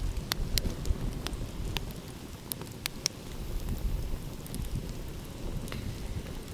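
Wood fire crackling, with sharp pops at irregular intervals that are most frequent in the first half, over a low steady rumble of ocean waves.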